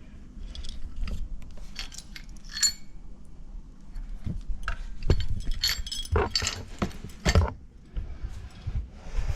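Metal plumbing fittings clinking and rattling against each other as they are handled, in a run of irregular clinks that grows busier about halfway through.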